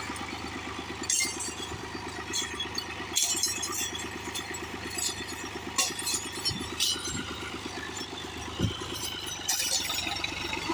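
Tractor engine running steadily under load as the tractor struggles to pull itself out of deep mud, with scattered sharp knocks and clatters over it.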